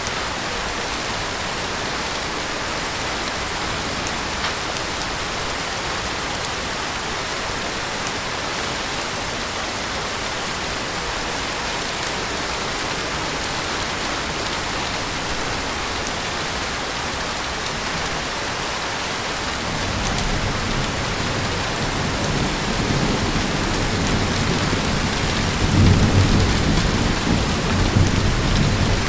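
Heavy rain falling steadily in a hiss. About two-thirds of the way through, a low rumble of thunder builds and swells twice near the end.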